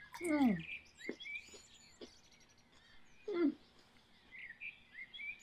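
A woman chewing a crisp dill pickle, with a few sharp crunching clicks, and twice a short falling hum of enjoyment, near the start and about three seconds in. Faint birdsong chirps run underneath.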